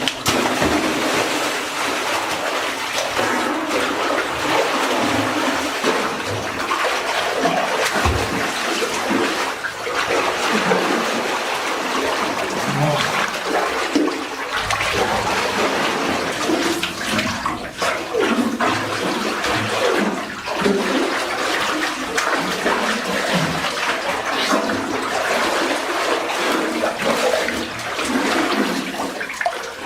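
Steady rush of water pouring and splashing, as from a small waterfall.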